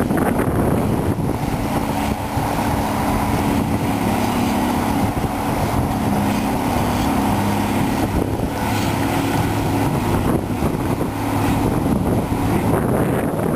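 Cat 345B hydraulic excavator's diesel engine running under load as it works, a steady heavy drone that strengthens for most of the middle of the stretch.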